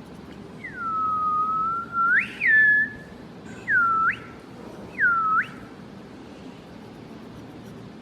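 Clear whistling in four notes. The first is a long note that dips and holds low before swooping up. A short note follows, then two quick U-shaped swoops about a second apart.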